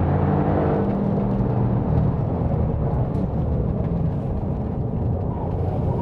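Toyota GRMN Yaris's 1.6-litre turbocharged three-cylinder engine working hard on a circuit lap, heard alongside tyre and road noise. Its note blurs in the middle and climbs again near the end.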